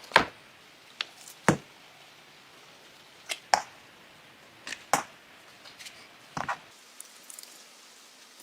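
Irregular sharp clicks and knocks, about ten in all, some in quick pairs, as the Colt M1903 Pocket Hammer pistol is handled; the loudest come right at the start and about a second and a half in.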